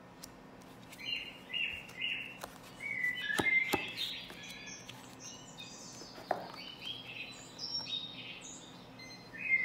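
Birds chirping and twittering in short high notes, with a couple of sharp clicks of cards being handled about three and a half seconds in.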